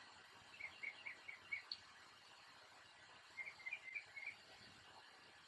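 Faint bird chirping: two short runs of about five quick chirps each, one about a second in and another about three and a half seconds in, over near silence.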